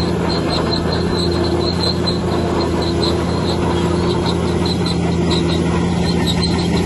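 Bulldozer working: its diesel engine runs steadily while a short high squeak repeats about three times a second, typical of crawler tracks.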